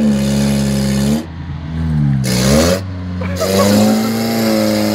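Vauxhall Cavalier engine revving hard in three surges, with its driven wheels spinning and the tyres screeching, as the car strains against a rope holding its rusted-on exhaust to a lamppost.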